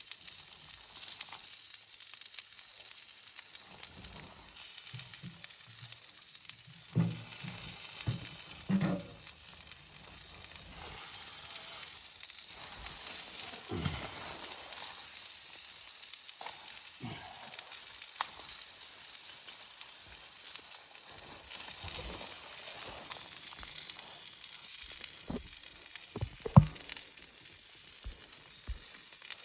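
Food sizzling in a frying pan, a steady hiss broken by scattered knocks, with one sharp, loud knock near the end.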